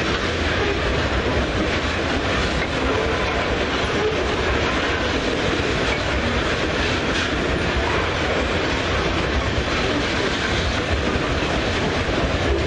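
Loaded ore wagons of a freight train rolling past, their steel wheels running steadily on the rails.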